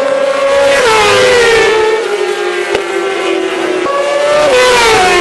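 Racing sport-bike motorcycle engines running at high revs, with the engine note dropping in pitch twice, about a second in and again near the end, as the bikes pass by or shift.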